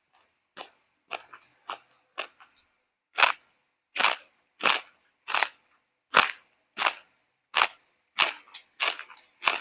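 Close-up chewing of crunchy food: a few soft crunches at first, then loud, regular crunches about every two-thirds of a second from about three seconds in.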